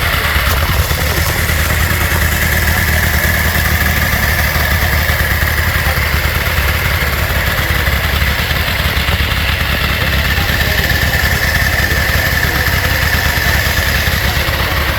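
Motorcycle engine running steadily at an even, low rumble with no revving.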